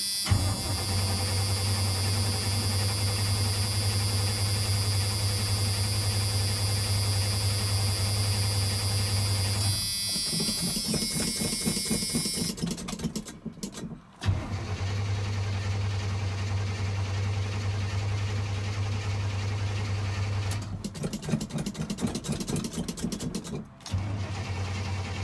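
The starter cranks the 1988 Chevy R30's 350 V8 in long, steady spells. Twice the engine catches for a few seconds, running rough and uneven, then dies, and the cranking starts again. This is a cold start after nine months of sitting, on three-year-old gas.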